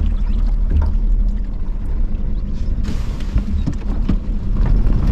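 Outboard motor on a small aluminium boat running steadily, a constant low hum.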